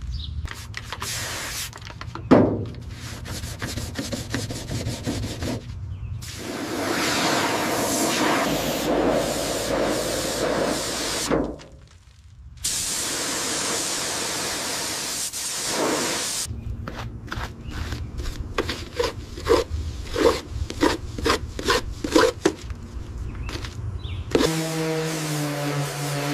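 Hand-worked scraping and rubbing on a surface in short edited segments: scattered scrapes and knocks, a steady hiss for several seconds, then quick back-and-forth rubbing strokes. Music comes in near the end.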